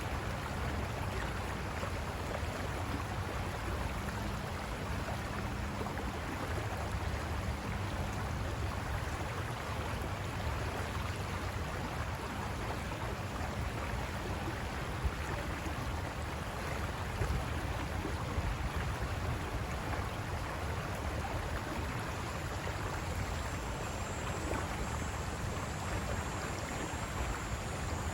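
River water rushing over rocks: a steady, unbroken wash with most of its weight low down. A faint thin high whine joins in over the last few seconds.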